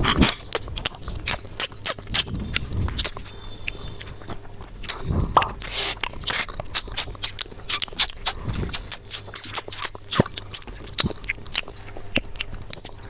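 Close-up eating: irregular crunchy bites and chewing, many sharp clicks a second with a few louder crunches near the middle.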